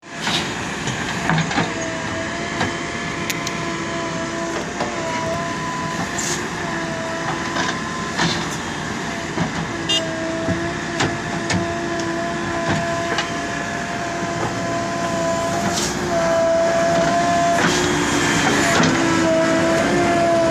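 JCB 3DX Plus backhoe loader's diesel engine and hydraulics working, with a steady wavering whine and scattered knocks. It grows louder about sixteen seconds in.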